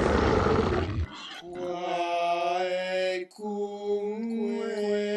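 A loud, rough roar that cuts off about a second in, followed by long held chant-like notes: two sustained chords with a brief break between them.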